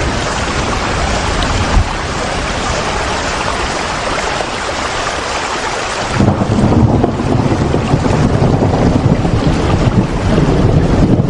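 Steady, loud rain noise with a full hiss, which changes abruptly about six seconds in to a deeper, lower-pitched wash with much less hiss.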